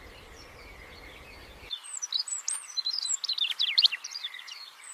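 Faint outdoor ambience, then from about two seconds in a quick run of high chirps and short down-slurred notes from small songbirds.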